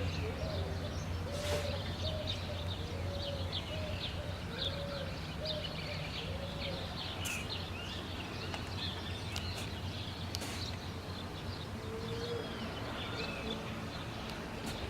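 Swallows twittering with many short, high chirps, over a steady low hum. A lower call repeats about once a second in the first few seconds and again near the end.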